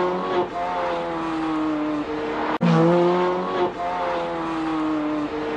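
Ferrari 430 Scuderia's V8 engine running hard, its note stepping down once and then easing lower. The sound breaks off suddenly about two and a half seconds in and the same loud engine note starts again, easing down in the same way.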